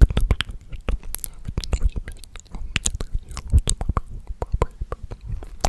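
ASMR mouth sounds close to the microphone: a dense, irregular run of sharp clicks and smacks, several a second.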